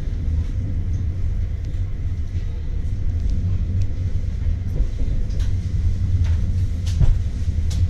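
Low, steady rumble of an Allegro Pendolino high-speed electric train rolling into the station, heard from inside the carriage, with a few sharp clicks in the second half.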